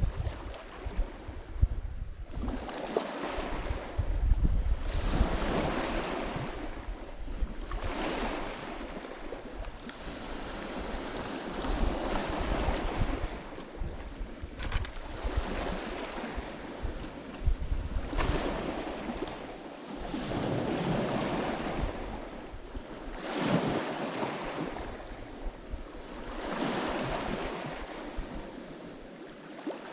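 Lake Michigan waves washing onto the shore, one surge about every three seconds, each swelling and falling away, with wind buffeting the microphone.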